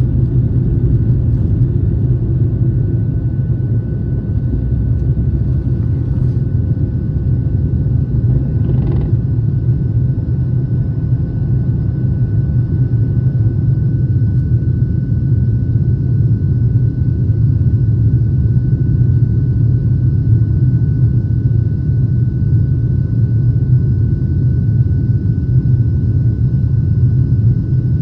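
Airliner cabin noise: a steady low rumble from the engines and airflow, with faint steady whines above it. A brief faint sound about nine seconds in.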